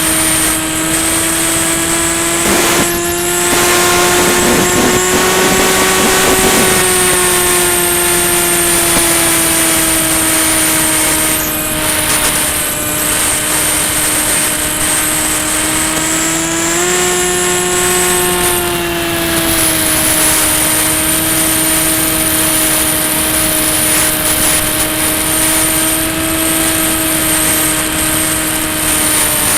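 Electric motor and propeller of a Volantex Ranger EX FPV plane in flight, a steady whine with wind rush over it. The pitch rises slightly twice, about five seconds in and again about seventeen seconds in.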